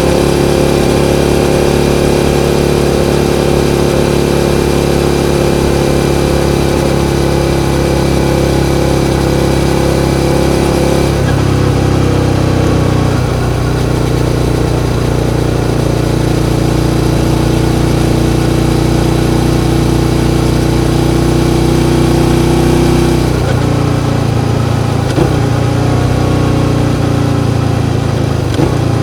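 Suzuki SV650 V-twin engine running at steady revs, its pitch shifting down about eleven seconds in and changing again a little past twenty seconds, with brief short rev changes near the end.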